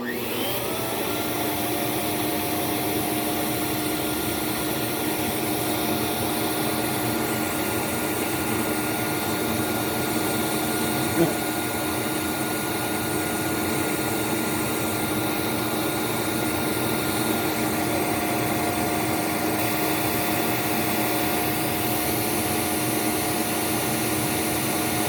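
Hoover C2401 backpack vacuum's dual-stage Ametek motor switching on and running with a steady whine. Its pitch rises slightly in the first second as it spins up, and a single brief click comes about eleven seconds in.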